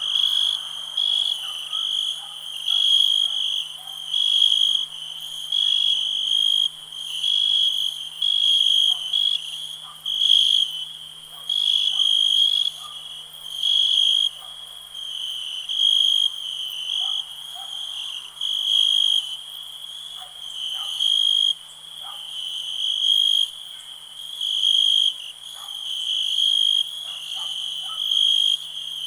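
Crickets chirping: a high, steady trill that swells and fades in pulses about once a second.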